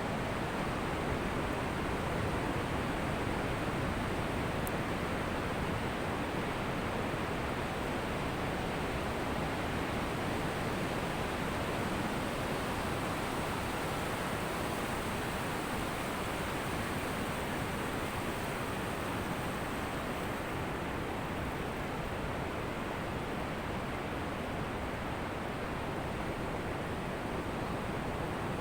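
Ocean surf washing on a beach, heard as a steady rushing hiss with no distinct breaking waves standing out.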